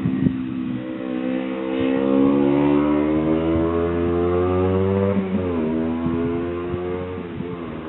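1978 Honda CB125 twin-cylinder engine in a motorcycle, pulling with its note rising steadily for about five seconds. Then the pitch drops suddenly and the engine carries on at a lower note that eases off toward the end.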